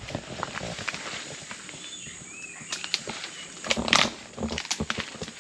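Irregular crackling and rustling of footsteps through forest undergrowth and leaf litter, loudest just before four seconds in. There is a short whistled bird call about two seconds in, over a steady high background tone.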